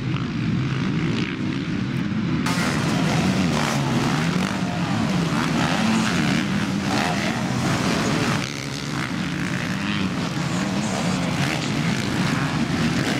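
Motocross motorcycle engines racing, their pitch rising and falling as they rev up and shift. About two and a half seconds in, a hissing layer joins the engine sound.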